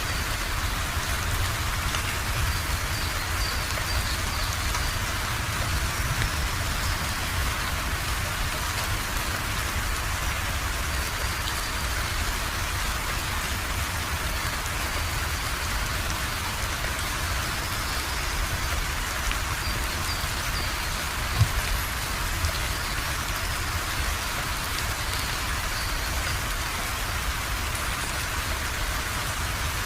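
Steady, continuous rainfall pattering on a surface, with a brief low thump about two-thirds of the way through.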